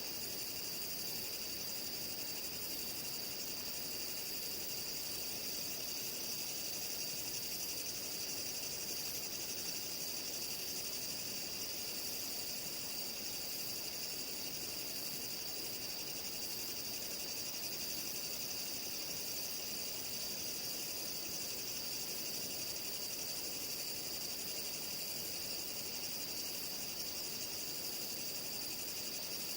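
Steady chorus of night insects, crickets and the like, one unbroken high trill with a still higher trill pulsing about once a second.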